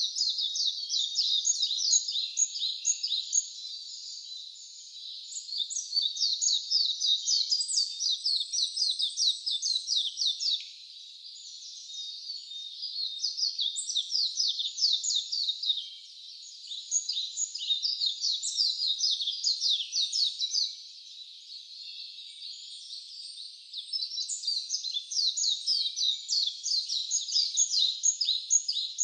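A songbird singing long, rapid, high-pitched twittering phrases, each a few seconds long, with short pauses between them: about five phrases.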